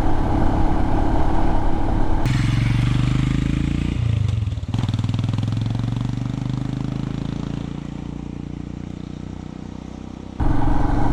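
Royal Enfield Himalayan's single-cylinder engine running while the motorcycle is ridden down a gravel road. There is a brief dip in the engine sound about four seconds in. After that it slowly drops in pitch and quietens as the bike eases off, and it comes back abruptly louder near the end.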